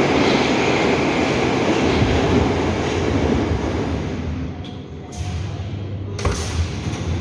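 Moscow metro train running at the platform, a loud steady rumble that dies down after about four seconds, followed by a few sharp clunks.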